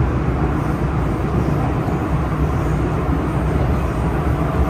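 MTR Tseung Kwan O line M-Train running at speed: a steady, loud rumble of wheels and traction equipment.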